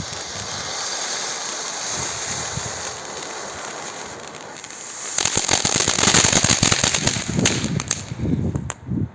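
Silver firework fountain spraying with a steady hiss, then about five seconds in breaking into loud, dense crackling that dies down near the end.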